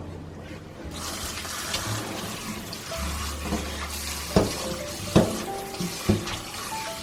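Tap water running into a kitchen sink, starting about a second in, with three sharp knocks of dishes or utensils in the second half.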